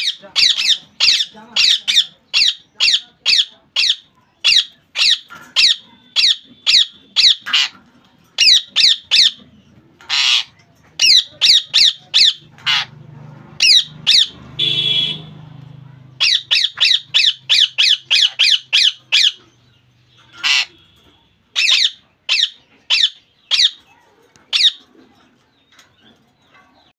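Ringneck parrot squawking in long runs of short, shrill calls, about two to three a second, broken by a few pauses and a couple of longer, harsher calls partway through.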